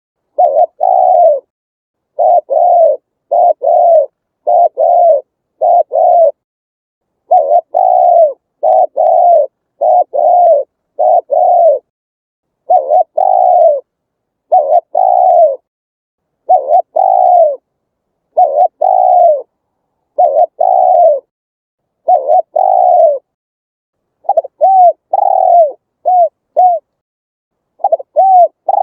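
Spotted dove cooing: a steady series of low coos, mostly in pairs, with short gaps of silence between phrases. Near the end the notes become shorter and come quicker.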